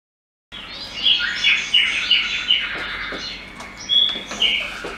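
Songbirds chirping and whistling, many short calls one after another, starting about half a second in.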